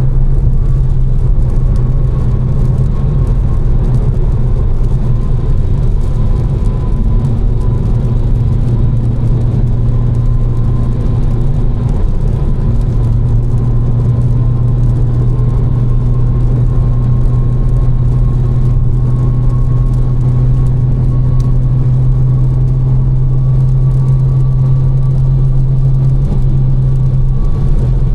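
Tuned BMW M4's twin-turbo inline-six, fitted with catless downpipes and a Fi exhaust, holding a steady low drone at a constant cruise, with tyre and road noise underneath.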